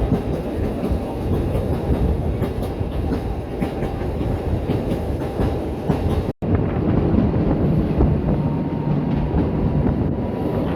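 Steam train hauled by the 031T tank locomotive No. 3714 running along the track, a continuous rolling rumble. It breaks off abruptly about six seconds in and resumes, with a steady low hum added.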